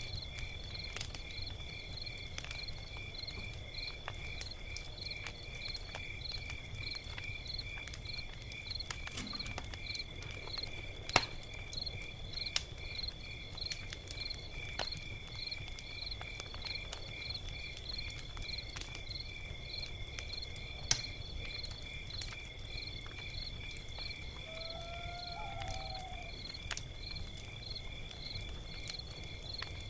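Log fire crackling with sparse snaps, two louder pops about a third and two thirds of the way through, over a low rumble of the burning. Crickets chirp through it as a steady high trill with a rhythmic pulse, and a short call sounds near the end.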